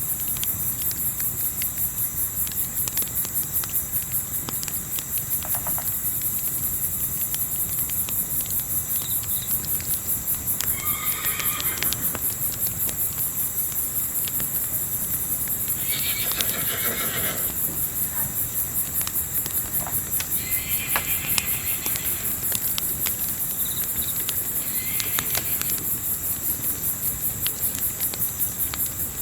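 Night ambience of crickets chirring steadily, with a campfire crackling in small pops. Horses whinny several times, about 11, 16, 21 and 25 seconds in.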